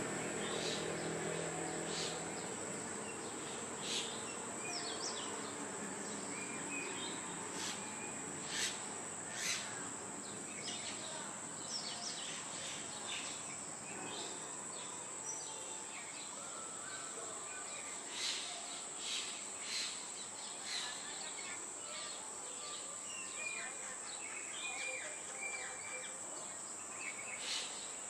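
A steady high-pitched insect trill, with scattered short bird chirps over it.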